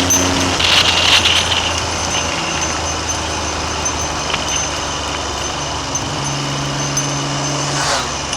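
Triumph Trident three-cylinder motorcycle engine running under way, its note stepping to a different pitch a few times, with steady wind rush over the microphone.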